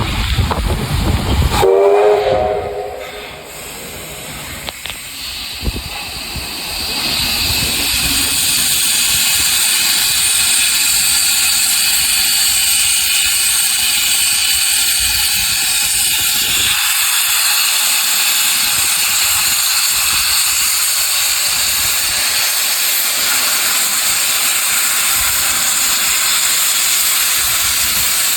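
Steam locomotive releasing steam: a loud steady hiss builds up over a few seconds and then holds. Before it, a low rumble drops away about two seconds in, with a brief pitched sound at the same moment.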